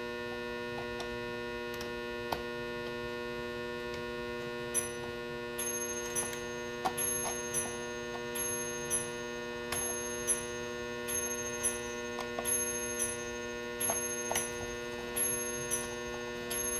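Steady electrical mains hum throughout. From about five seconds in, a mechanical clock ticks at an even pace, a bit under two sharp ticks a second.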